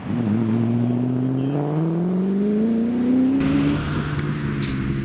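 A supercar's engine accelerating, its pitch climbing steadily for about three and a half seconds after a gear change. Near the end it gives way to an engine running at a steadier, lower pitch.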